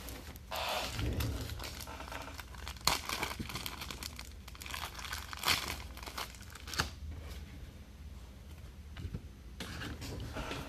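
Plastic wrapping on trading card boxes and packs crinkling and tearing as it is handled and ripped open, in irregular crackly bursts with a few sharper rips.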